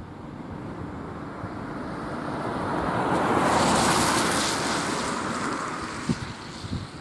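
A rushing, whooshing noise that swells to a peak about halfway through and then fades, with two soft low thumps near the end.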